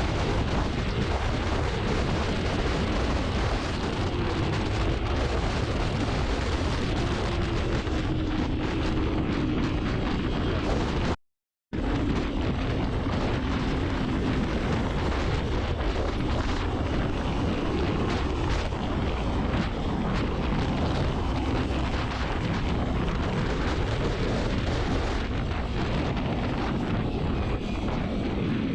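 Wind noise on the microphone at riding speed, with the Kawasaki Ninja 300's parallel-twin engine running underneath at a fairly steady pitch. The sound cuts out completely for about half a second near the middle.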